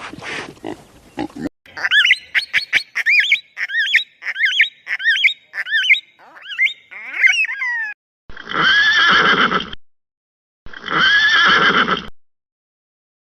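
Horse whinnying: a long, high, quavering neigh that wavers rapidly in pitch for about five seconds, then falls away. Two separate animal calls of about a second and a half each follow.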